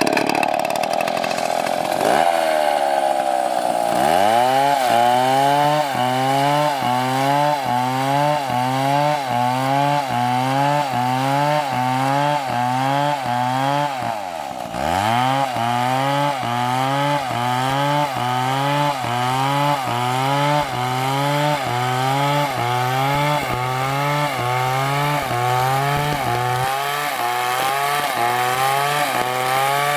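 Large chainsaw running at high revs while cutting a big tree, its engine note wavering in a regular pulse about one and a half times a second. The pitch sags sharply and recovers about two, four and fourteen seconds in, as the saw bogs under load.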